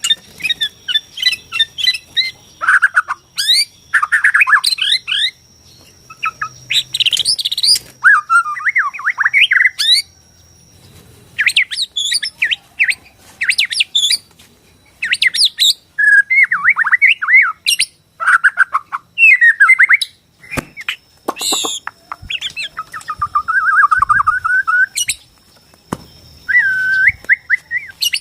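Borneo white-rumped shama (murai batu Borneo) singing a long, varied song. It delivers bursts of rapid trills, chattering notes and sweeping whistles, separated by short pauses.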